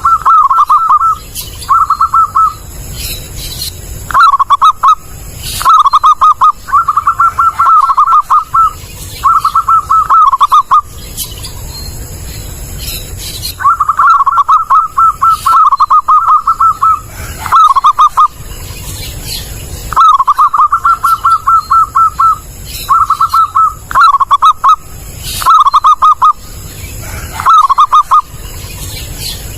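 Zebra dove (perkutut) cooing: loud phrase after phrase of rapid, stuttering coos at a steady mid pitch, with short pauses between phrases.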